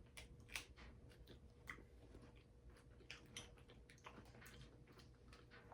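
Faint chewing of a chocolate bar with a crunchy pistachio filling: a run of small, irregular crunches and mouth clicks.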